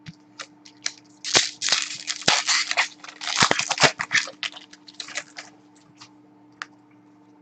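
Plastic or foil wrapping crinkling and crackling as it is handled during a trading-card break, mostly from about one to four seconds in. Sharp clicks and snaps of cards being handled come before and after.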